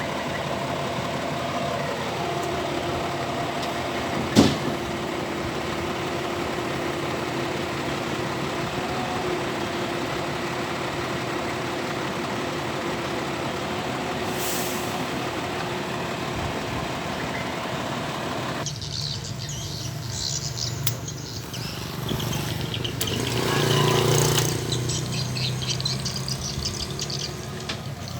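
Excavator's diesel engine running steadily, with one sharp knock about four seconds in. About two-thirds through, the sound turns into a rougher clattering and scraping that swells briefly before easing.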